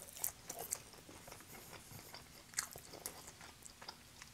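Close-miked chewing of a mouthful of pepperoni and cheese pizza: soft wet smacks and small mouth clicks scattered through.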